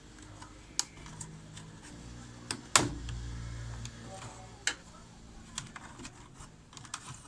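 Scattered small clicks and taps of hands working on washing machine wiring and plastic parts, with one sharper knock a little under three seconds in, followed by a brief low hum.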